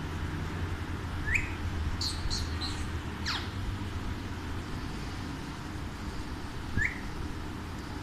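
Bird calls: two short rising chirps, one about a second in and one late, a quick run of high notes, and one long falling whistle about three seconds in, over a steady low rumble.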